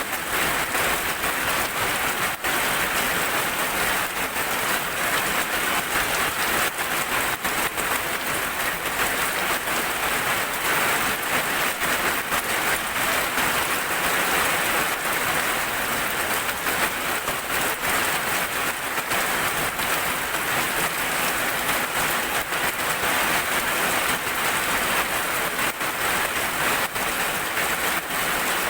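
Heavy rain falling steadily, a continuous hiss with many single drops clicking sharply through it.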